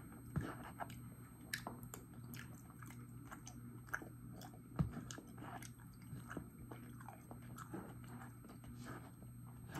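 Close-miked, faint chewing of a mouthful of soft, mashed turkey and stuffing, with many small irregular wet mouth clicks and smacks over a faint steady hum.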